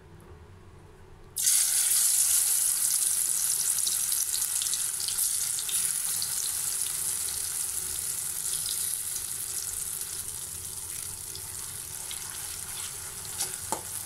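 Masala-coated potato sticks hitting hot oil in a kadai: a sudden loud sizzle breaks out about a second and a half in and keeps going, slowly easing off. A couple of light clicks come near the end.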